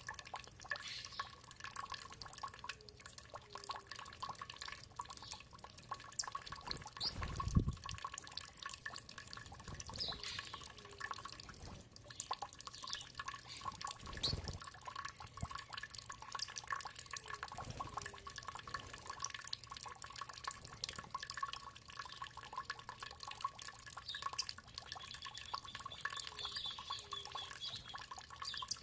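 Water dripping and trickling in many small, quick drips, with a few low thuds, the loudest about seven seconds in. A bird gives a high chirping trill near the end.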